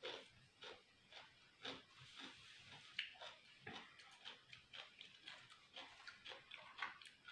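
A person chewing a mouthful of food close to a sensitive ASMR microphone, making soft wet smacking mouth sounds about twice a second.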